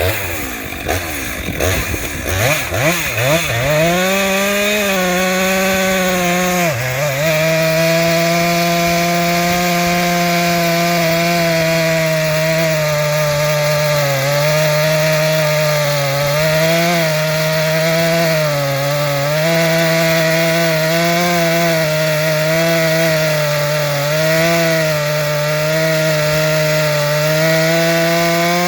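Two-stroke chainsaw warming up: it picks up speed over the first few seconds, then runs at a steady speed with small dips in pitch now and then.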